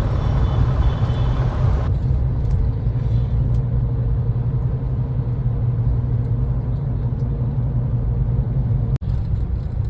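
Car driving along a road: a steady low rumble of engine and road noise. The higher hiss drops away about two seconds in, and the sound cuts out for an instant near the end.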